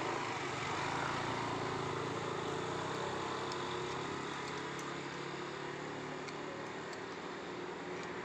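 Matsumoto MOB 830 3 hp two-stroke outboard motor running steadily at an even speed.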